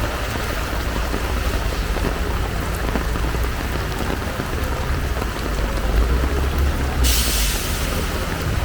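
Heavy rain pouring steadily, with a strong low rumble underneath. About seven seconds in, a loud hiss swells up for about a second.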